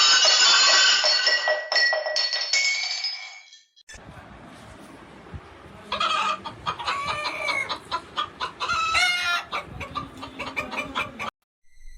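Loud squawking animal calls for about three and a half seconds. After a break, a run of short calls that bend in pitch.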